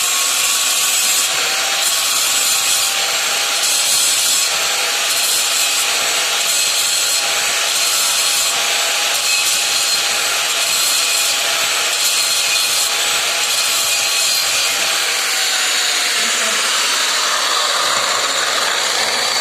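Angle grinder running continuously against steel, cleaning slag off the weld so the root pass can be restarted. Its steady motor whine sits under a loud grinding hiss, dipping slightly in pitch near the end.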